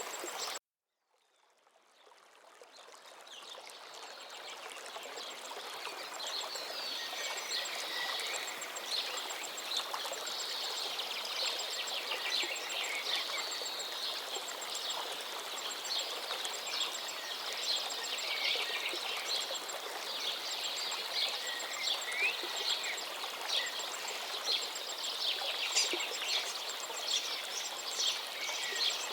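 Many songbirds chirping and singing over the steady rush of a flowing forest river. The sound cuts out just after the start, then fades back in over a few seconds.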